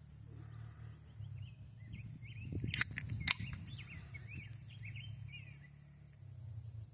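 Distant off-road engine from a neighbour's dirt track droning steadily and low, with a songbird chirping over it. Two sharp clicks about half a second apart, a little under three seconds in, are the loudest sounds.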